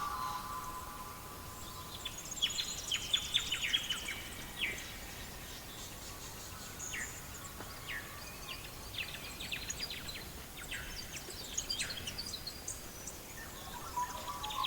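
Wood fire crackling with scattered sharp pops, alongside faint intermittent bird chirps.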